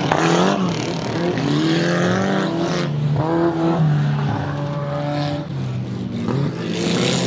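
Stock-car engines running hard on a dirt track, rising and falling in pitch as the cars accelerate and slide through the turn. At times more than one engine is heard at once.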